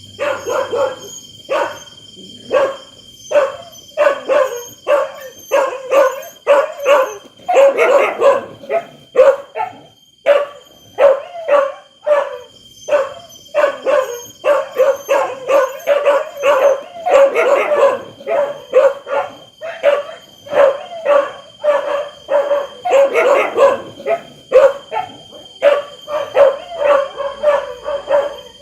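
Dogs barking loudly and repeatedly, about two or three barks a second, with several dogs barking over one another at times. A steady high-pitched tone runs underneath.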